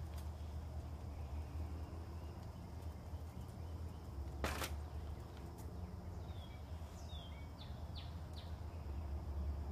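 A bird chirping a few short, high, falling notes in the second half, over a steady low rumble, with one brief rush of noise about four and a half seconds in.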